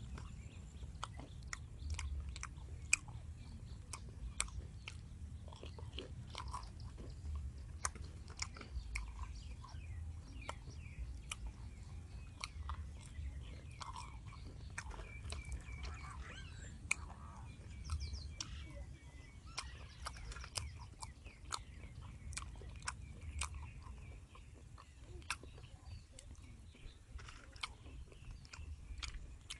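Chewing and crunching of crispy tempura-battered, deep-fried pig intestine, with many sharp crackling crunches from the fried coating.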